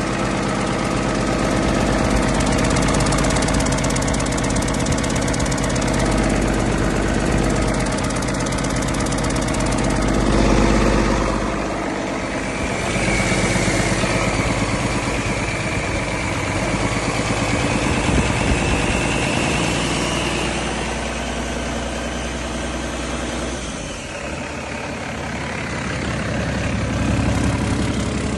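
2008 Cummins ISX inline-six diesel engine running on a test run. Its note shifts about twelve seconds in and again near the end, and a faint whine rises slowly in the middle.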